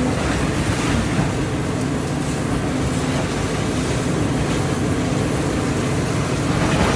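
Excavator's diesel engine running steadily under load, with some rattling and knocking of demolition work.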